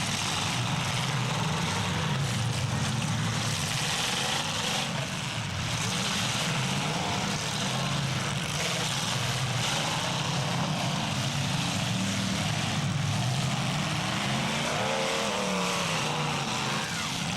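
Engines of several full-size demolition derby cars running and revving together in a loud, steady din.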